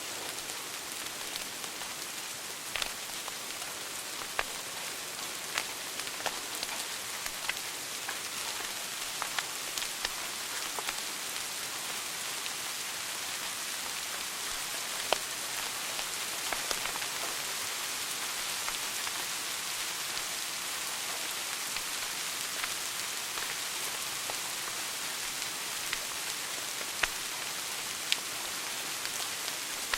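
Wood fire burning in a fireplace: a steady hiss with scattered sharp crackles and pops, a few of them louder.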